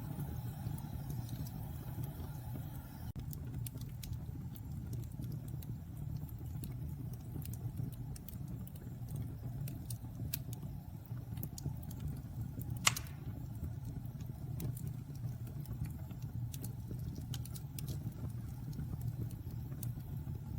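Wood fire burning in a fireplace: a steady low rumble with scattered sharp crackles, and one louder pop a little past the middle.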